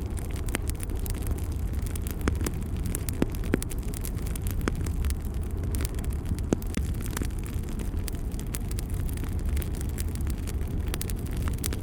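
Fire burning in a fireplace: a steady low rumble of flames with scattered sharp crackles and pops, a few of them louder.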